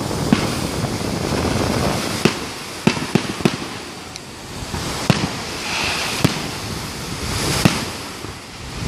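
Aerial firework shells bursting: about eight sharp bangs, several in quick succession around three seconds in, over a steady rushing background.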